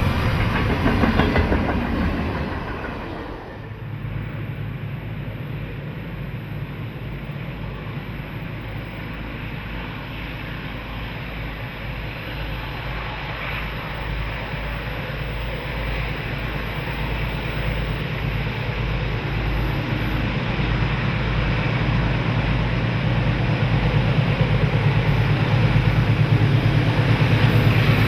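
Diesel freight locomotive and train. A broad passing train noise fades over the first few seconds, then a diesel locomotive's low engine rumble grows steadily louder as it approaches.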